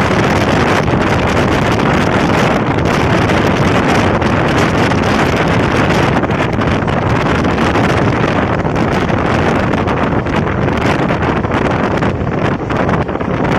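Wind rushing over the microphone at the open door of a moving electric suburban train, mixed with the steady running noise of the trains on the track. It grows a little more uneven near the end.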